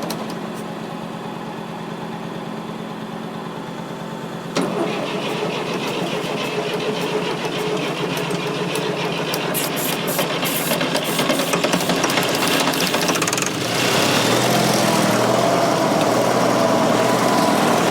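Fordson Super Major backhoe's 3.6 L diesel engine running. It jumps abruptly louder about four and a half seconds in and runs louder again from about thirteen seconds.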